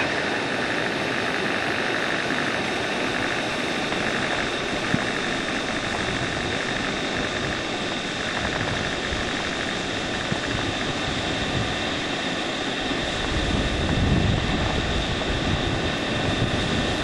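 Waterfall pouring: a steady rush of falling water, with a deeper rumble coming in about three-quarters of the way through.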